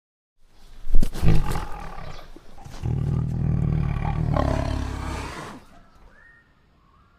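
Tiger roaring: a sudden loud snarl about a second in, then one long, deep roar of about three seconds.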